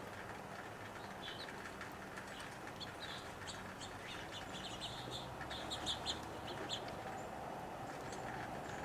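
Birds chirping: many short, high notes in quick runs, thickest about halfway through, over a steady background hiss.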